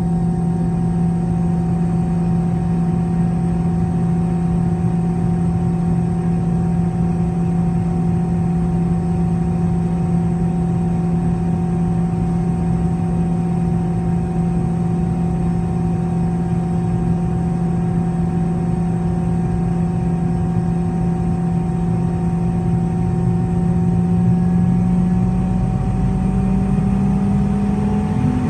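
Boeing 717-200's rear-mounted Rolls-Royce BR715 turbofan engines running during startup, heard from inside the rear cabin as a steady hum and whine over a low rumble. Near the end the whine starts to rise in pitch as the engines spool up.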